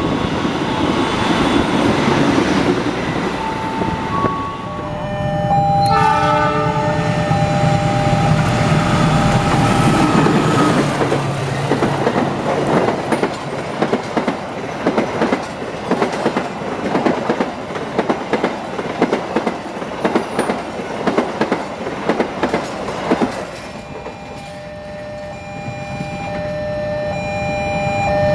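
Passenger trains passing at speed. A multi-note train horn sounds for several seconds, then the wheels beat a fast, even clickety-clack over the rail joints as a long rake of coaches goes by.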